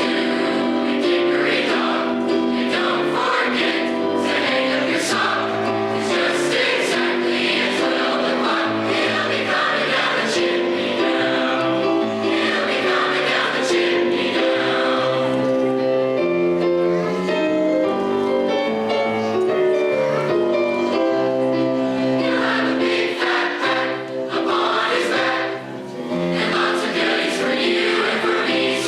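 High school choir singing a Christmas song, with sustained held notes throughout and a brief softer moment near the end.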